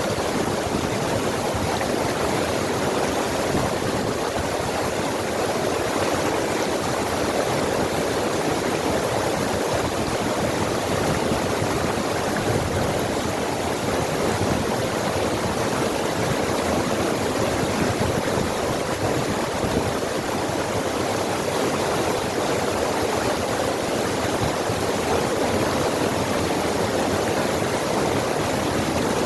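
Forest stream rushing over rocks, a steady, even flow of water.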